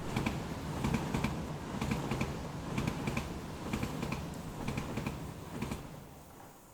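Rhythmic clicking, some clicks with a short high tone, over a low pulse in the soundtrack. It fades out near the end.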